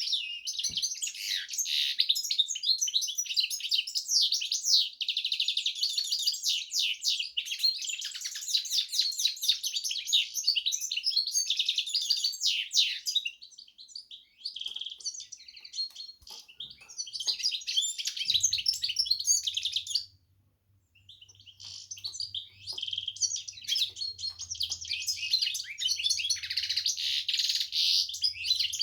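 A Carduelis finch × canary hybrid (mule) singing a long, fast, high twittering song. The song is broken by a brief lull partway through and a short gap about two-thirds in. A faint low hum joins in the second half.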